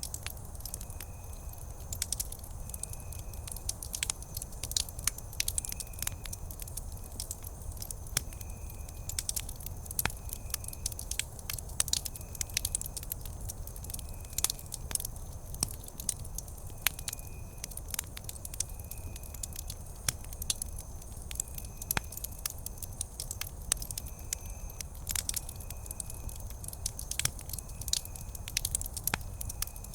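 Wood campfire burning and crackling steadily, with frequent sharp pops and snaps over a low rumble. A faint high chirp repeats about once a second behind it.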